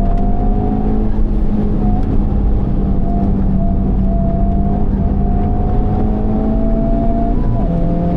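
Honda Civic Type R (FL5) turbocharged 2.0-litre four-cylinder through a Mugen exhaust, pulling hard on track with the engine note climbing slowly in pitch, then stepping down near the end at a shift or lift.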